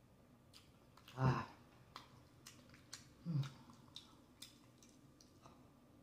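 Close-up eating sounds of someone eating baked chicken by hand: wet mouth clicks and smacks while chewing. There are two short hums from the eater's voice, a louder one about a second in and a softer one a little past three seconds.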